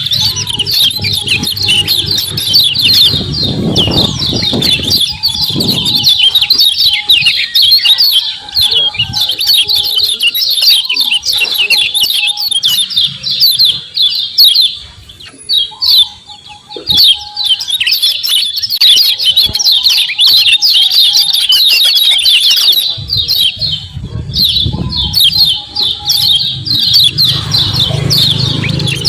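A kecial kuning white-eye calls in fast, dense runs of high 'ciak ciak' chirps that pause briefly a little past halfway. Low rumbling noise comes in early on and again near the end.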